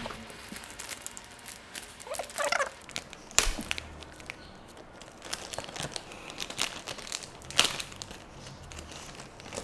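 Packaging crinkling and rustling as a box of sweets is opened by hand, with scattered small rustles and two sharper snaps, one about three seconds in and one near the end.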